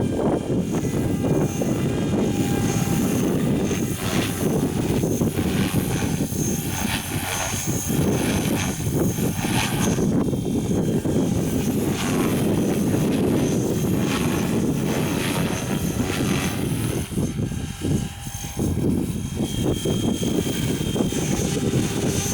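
Strong wind buffeting the microphone in gusts, over the faint high whine of a Forza 450 radio-controlled helicopter in flight.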